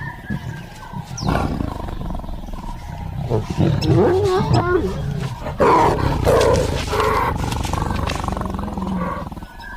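Lions mating, with repeated loud snarls and roars from about a second in until just before the end.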